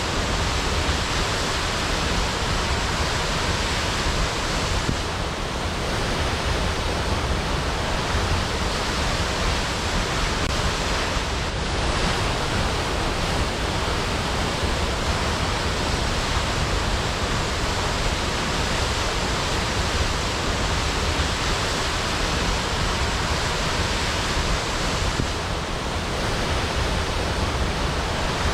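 Waterfall: water falling in a steady, full rush.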